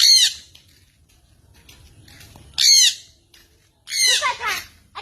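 A pet bird calling three times, each call a short cluster of curving notes.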